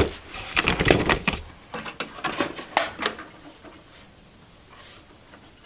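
A series of light clicks and knocks from metal and plastic parts being handled in a desktop computer case, clustered in the first three seconds and then dying away.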